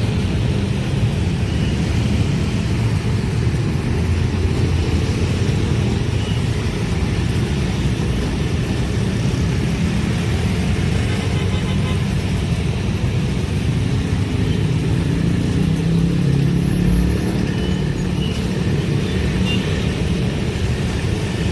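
Steady low rumble of a long train passing close by at a level crossing, even in level throughout.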